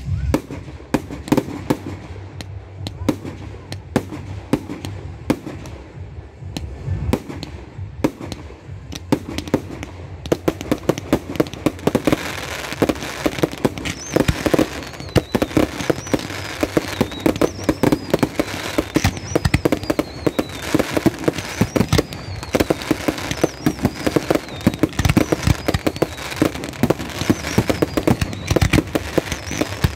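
Aerial fireworks display: a steady run of shell bangs that thickens into a dense barrage about twelve seconds in, with several whistles falling in pitch over the bursts.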